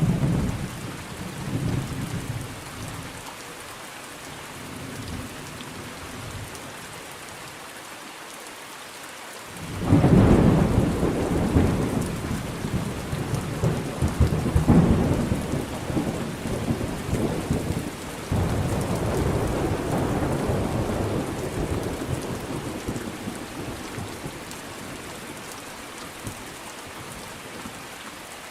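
Thunderstorm: steady rain falling, with thunder rumbling. A short rumble comes at the start, and about ten seconds in a loud, long peal of thunder begins, rolling on for some fifteen seconds before fading back into the rain.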